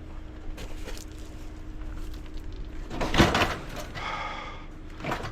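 Load being strapped down on a scrap trailer: a few light knocks, then a loud knock and rattle about three seconds in, over a faint steady hum.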